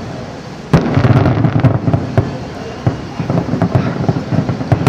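Fireworks display going off: a sharp bang about three-quarters of a second in, then a quick run of crackling pops and booms.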